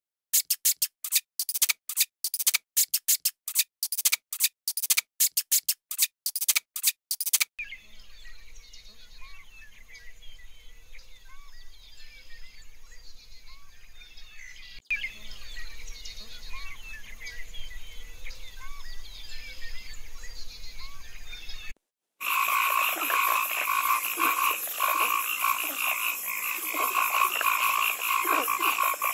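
Animal calls in three separate clips, cut one after another. First comes a rapid, irregular run of sharp clicks for about seven seconds. Then a quiet chorus of short chirps runs over a faint low hum, and after a brief break about three-quarters of the way in, a loud, dense, pulsing chorus.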